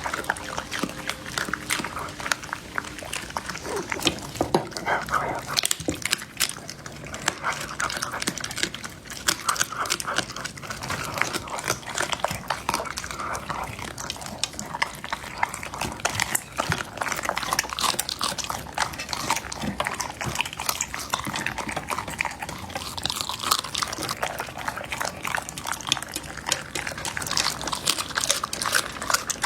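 A dog eating raw food: rapid, irregular wet chewing, crunching and smacking.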